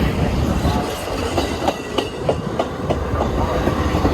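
Dubbed-in sound of full-size railroad cars rolling along the track: a steady rumble with a clickety-clack of wheels over rail joints, about three clicks a second in the middle.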